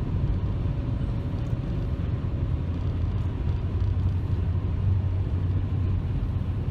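Steady low rumble of engine and road noise heard from inside a car cabin cruising at highway speed.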